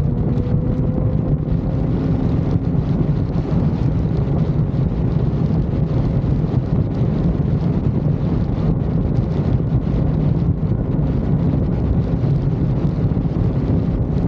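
Wind rushing over the microphone on a motorcycle ridden at highway speed, with the engine running underneath; the engine note rises a little in the first couple of seconds, then holds steady.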